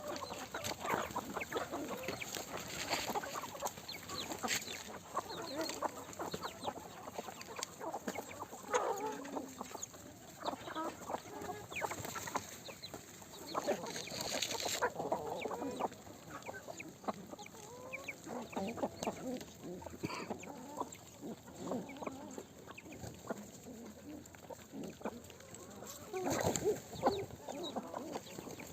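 A flock of Peruvidai country chickens clucking continuously, many birds calling over one another, with louder stretches of noise about halfway through and near the end.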